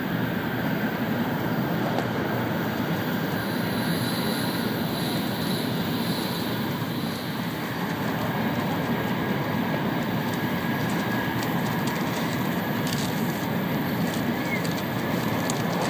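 N700-series Shinkansen running at speed through a tunnel, heard from inside the passenger cabin: a steady rumbling rush of running and air noise with a faint steady whine above it.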